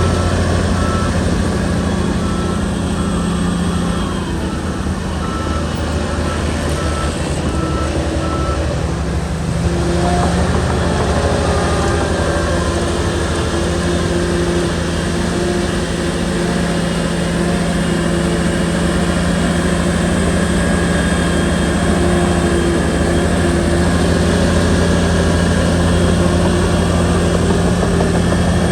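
Shantui bulldozer's diesel engine running steadily under load, with a reversing alarm beeping at a quick even rate through the first eight seconds or so. The engine eases for a moment about four seconds in and picks up again about ten seconds in.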